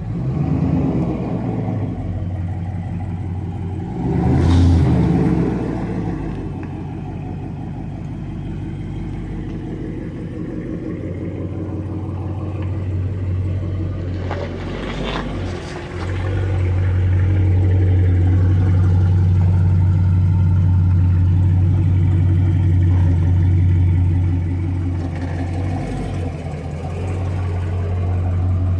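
Two 12-inch car subwoofers playing bass-heavy music, the deep bass line loud and steady, dropping out briefly a few times and coming back stronger about 16 seconds in.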